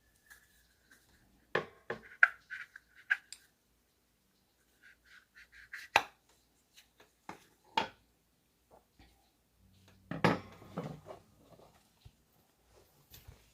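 A metal hook or wire hanger clicking, knocking and scraping against a rigid dish, such as a saucer, pie pan or plate, as it is pushed at the dish's centre hole and fails to go through. The knocks are irregular, with a brief ringing in the first few seconds and the loudest clatter about ten seconds in.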